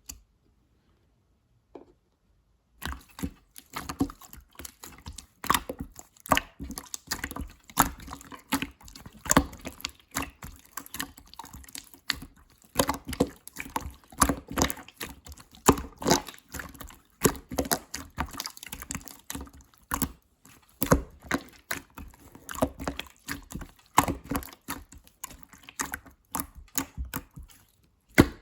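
Clear slime being squished and played with by hand: a dense run of irregular wet clicks and pops that starts about three seconds in, after a near-silent opening.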